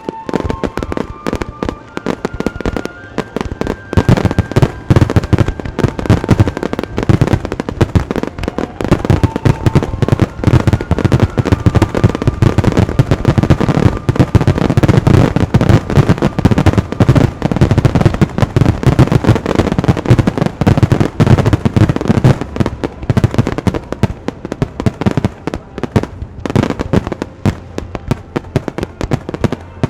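Fireworks display: a dense barrage of aerial shells bursting in rapid succession, many bangs a second, heaviest through the middle of the stretch.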